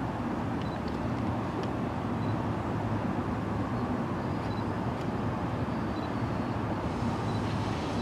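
Ten-car Line 4 electric commuter train running along the line: a steady low rumble of wheels on rails and motor hum, with a few faint clicks.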